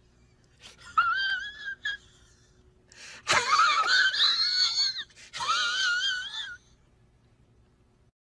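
Meme sound effect of breathy, high-pitched wavering squeals: short ones about a second in, then two longer, louder ones from about three seconds in, the first starting with a sharp click.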